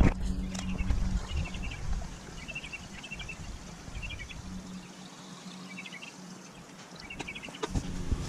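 A small bird chirping in short quick bursts, repeated every second or so, over a low rumble that drops away in the middle.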